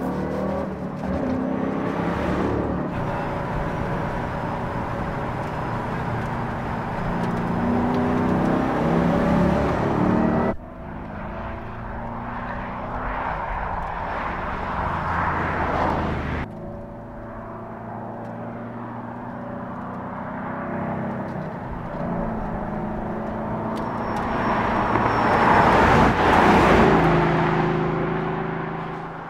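Ford Mustang GT's V8 engine and exhaust under acceleration as the car drives by, the engine note rising and falling. The sound changes abruptly twice, about ten and sixteen seconds in, and swells loudest near the end as the car passes close.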